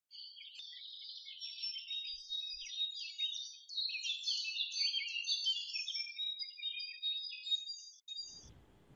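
Several birds chirping and singing at once, a busy chorus of short high calls and trills that cuts off suddenly near the end.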